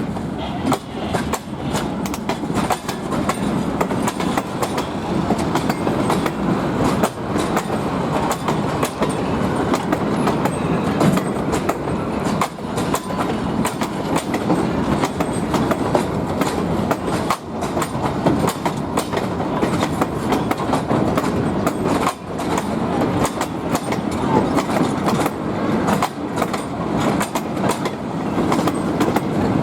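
Short passenger train rolling past at close range, its wheels clicking steadily over the rail joints.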